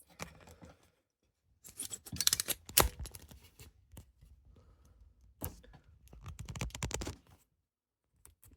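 Close-up handling noise: clicks, scrapes and rustles in short bursts, around two to three seconds in, once at about five and a half seconds and again around six to seven seconds, with near-silent gaps between.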